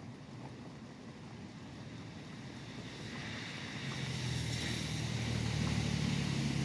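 A vehicle passing on a wet highway: the hiss of tyres on wet road and a low engine rumble swell up from about three seconds in and are loudest near the end, over a steady wash of rain.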